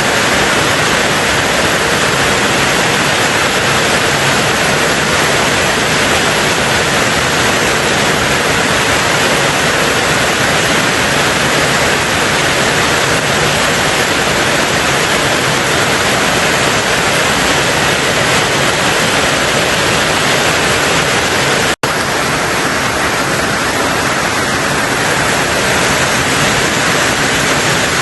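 Steady, heavy rain on a tin roof: a dense, even hiss and patter with no change in strength, broken once by a split-second dropout to silence about three-quarters of the way through.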